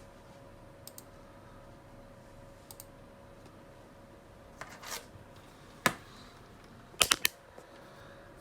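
A few sharp clicks and taps of small hard objects, one about six seconds in and three in quick succession near the end, with a short scrape before them, over a steady faint hum.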